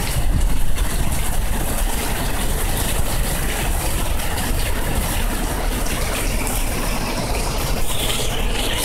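Heavy rain pouring down, a steady loud hiss with a low rumble underneath.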